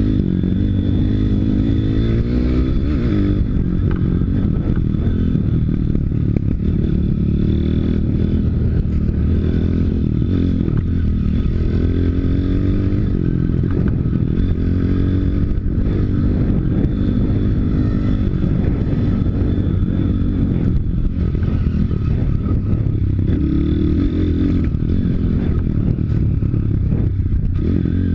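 YX 160 cc single-cylinder four-stroke pit bike engine under way, revving up and falling back again and again as it is ridden through the gears, with a mechanical clatter over it.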